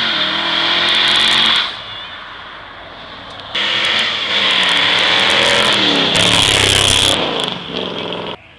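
Muscle cars' engines revving hard and accelerating down the street, pitch rising and falling, with a high steady screech of tyre squeal over it as in a burnout. Loud in two stretches: the second starts suddenly about three and a half seconds in and cuts off abruptly near the end.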